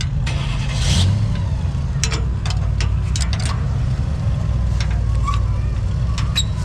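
A four-wheel-drive truck's engine running steadily at low revs, rising briefly about a second in, with scattered clicks and knocks over it.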